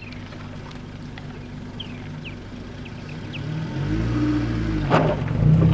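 Car engine running steadily, then revving up from about three and a half seconds in, its pitch rising and falling and climbing again near the end, as it pulls away. A sharp click sounds about five seconds in.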